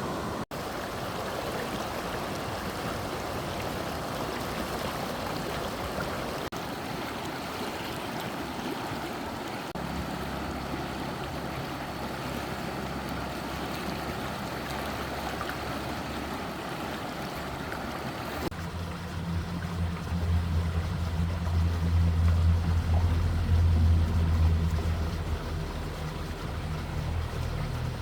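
Fast-flowing stream water rushing steadily, with a low motor hum joining about ten seconds in. After a sudden change about two-thirds through, the rushing fades back and the low hum becomes the loudest sound.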